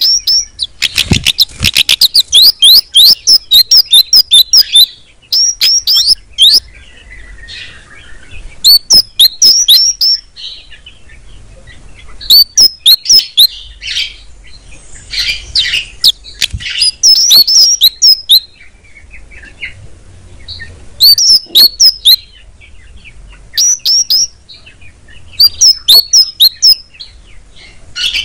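A kemade (cigen) songbird singing in bursts of rapid, high, repeated chirping notes. The first phrase is a long fast run of a few seconds; after it come shorter phrases of a second or so with pauses between them.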